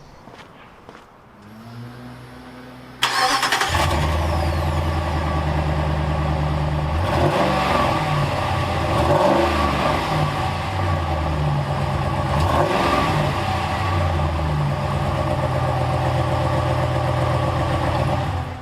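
2016 Ram Rebel pickup's engine cold-starting: it fires suddenly about three seconds in and settles into a steady run, its speed rising and falling a few times in the middle.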